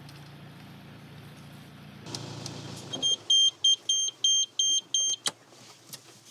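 A low steady hum, then a rapid run of about eight short, high electronic beeps, three or four a second, ending in a sharp click.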